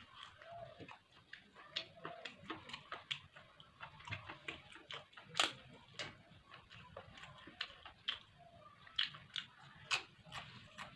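Close-miked chewing and eating mouth sounds: a steady run of irregular wet clicks and smacks, with one sharper click about five seconds in.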